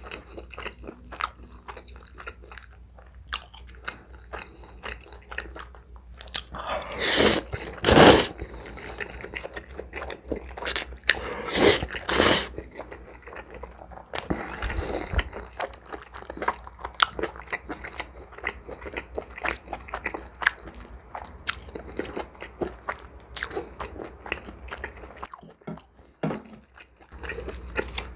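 Close-miked chewing and wet mouth sounds of a person eating spicy soup spaghetti with grilled pork intestine and pepperoni, mostly soft clicks and smacks, with a few louder, longer mouth sounds about a quarter and then just under halfway in.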